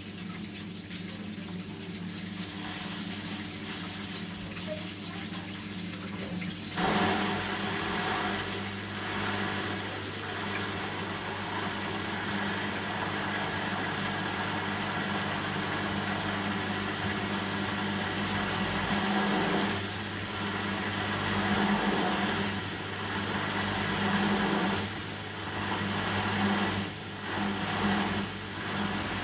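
Bosch washing machine filling with water during a synthetics 40 °C wash cycle, over a steady low hum. The rush of water starts suddenly about seven seconds in, then swells and dips.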